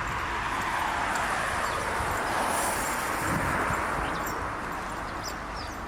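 Rushing noise of a passing vehicle that swells and then eases off, with a few short, high bird chirps near the end, likely white wagtails at their roost.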